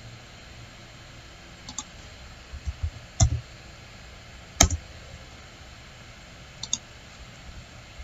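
A few scattered computer mouse clicks, some doubled, over a steady background hiss; the loudest comes about halfway through.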